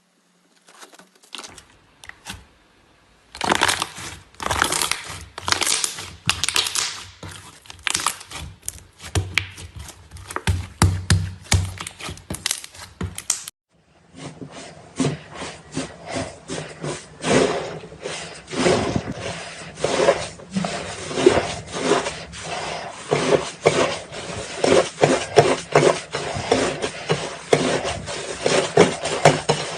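Crunchy slime being squished and worked, giving a dense run of crackles and small pops. The sound cuts off abruptly about 13 seconds in and starts again a moment later.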